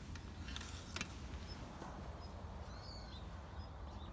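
Small birds chirping in short, repeated calls, with one longer arching call about three seconds in, over a steady low rumble.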